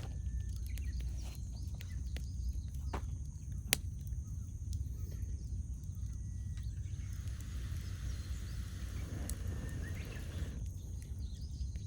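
Wood campfire crackling, with a steady low rumble and scattered sharp pops, the loudest a little under four seconds in. Faint bird calls chirp in the background now and then.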